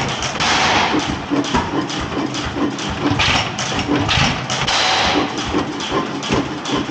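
15hp Galloway single-cylinder hit-and-miss engine running with a steady, rhythmic mechanical clatter. A few louder hissing bursts come through about half a second in, just after three seconds and near five seconds.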